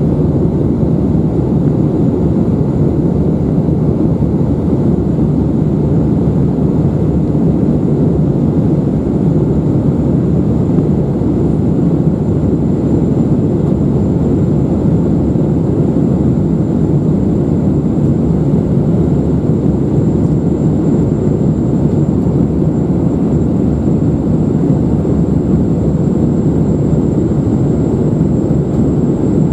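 Airbus A319-111 cabin noise in flight: the steady, loud roar of its CFM56 turbofan engines and the airflow over the fuselage, with a faint high whine held above it.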